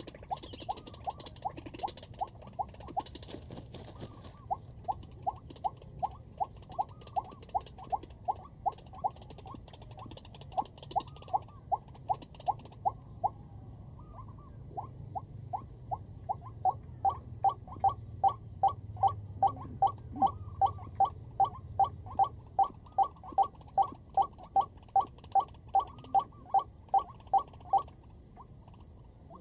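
White-breasted waterhen calling: a long run of short, rising notes at about two a second. The notes break off briefly in the middle and stop shortly before the end.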